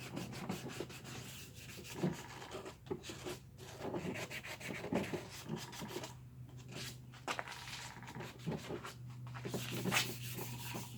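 320-grit wet sandpaper rubbing back and forth over a plastic motorcycle part in uneven strokes, scuffing the surface so adhesion promoter and paint will stick.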